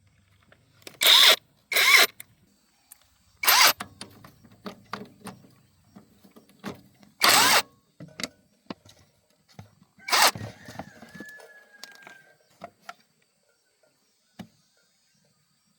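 Engine repair work: five short, loud bursts of tool noise, with scattered metallic clicks and knocks of tools and engine parts between them.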